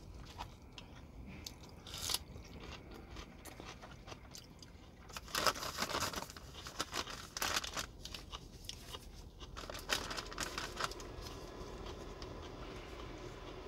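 A person chewing and crunching food, with scattered clicks and a louder spell of crunching and rustling about five to eight seconds in.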